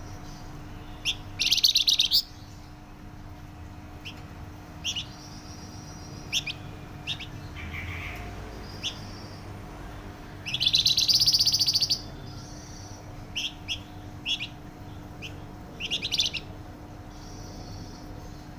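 Flamboyan songbird singing loud, rapid, dense trills, two long bursts with short chirps scattered between them. A faint steady hum runs underneath.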